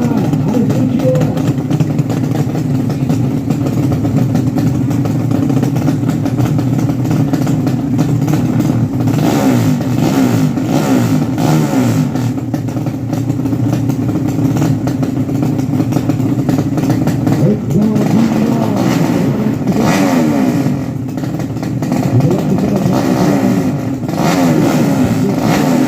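Several drag-racing motorcycle engines running and revving hard, their pitch sweeping up and down over one another, with the busiest revving in the second half.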